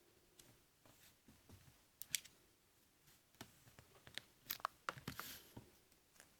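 Scattered faint clicks and taps of handling, a pair about two seconds in and a denser run between about four and five and a half seconds in, with a brief rustle just after five seconds.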